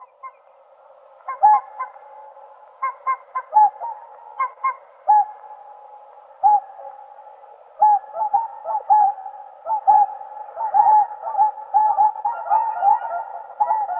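Whooper swans calling with short, bugle-like honks, a few at a time at first, then more often and overlapping from about halfway through.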